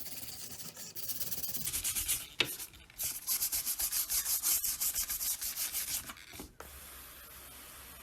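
Rapid back-and-forth hand sanding on a scale model car part, about five scratchy strokes a second. The strokes stop near the end and leave a steady faint hiss.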